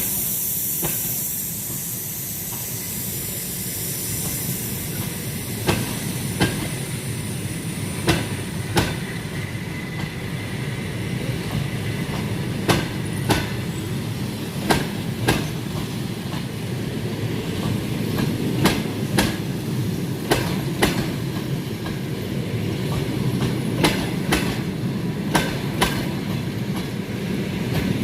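Passenger train rolling along with a steady rumble, its wheels clicking over rail joints in pairs that come closer together as the train gathers speed. A hiss fades out in the first couple of seconds.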